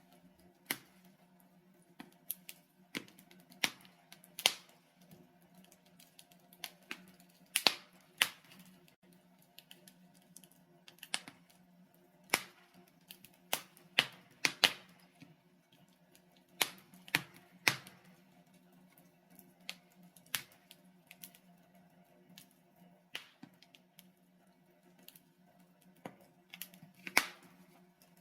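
Wood fire in a fireplace crackling, with sharp pops from the burning logs at irregular intervals, about one a second, over a faint low steady hum.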